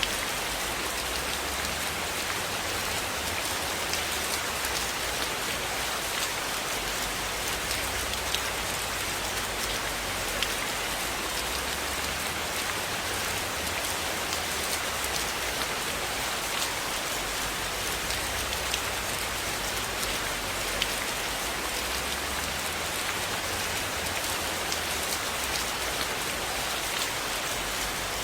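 Steady rainfall, an even hiss of rain on a surface, with scattered sharp ticks of individual drops.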